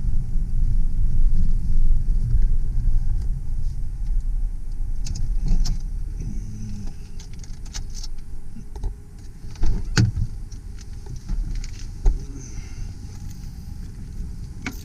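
Low rumble of engine and road noise inside the cab of a 2001 Mazda B4000 V6 pickup, fading about six seconds in, followed by a few sharp clicks and knocks.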